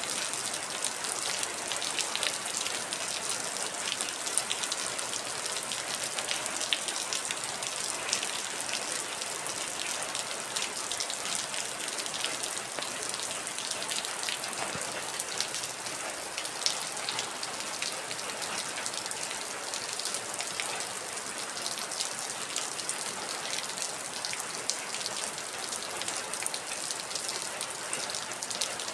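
Heavy rain falling steadily, a dense hiss with many close, sharp drop hits.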